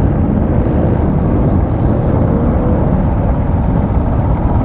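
Motorcycle engine idling steadily, a loud low rumble while stopped at a light.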